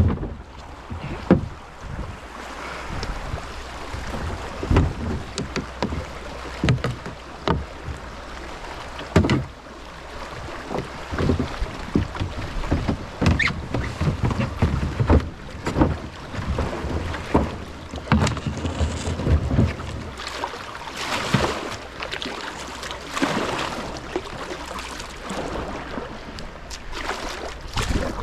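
A kayak being paddled down a small flowing creek: irregular paddle splashes and knocks against the hull over the steady noise of running water, with a louder rushing stretch about three-quarters of the way through.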